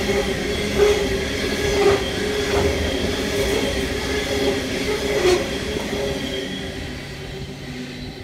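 Freight train wagons rolling past on the rails, with steady whining tones from the wheels and a few sharp clacks over rail joints. The sound fades away over the last couple of seconds.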